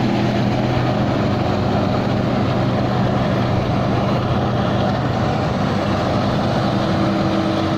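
Rice combine harvester's engine running steadily under load as it harvests through a sticky, muddy paddy.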